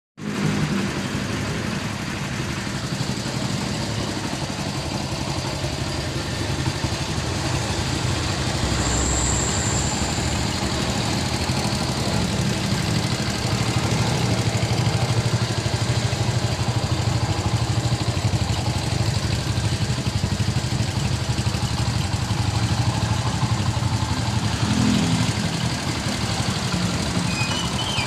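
Honda Win 100 motorcycle's single-cylinder four-stroke engine idling steadily while it warms up.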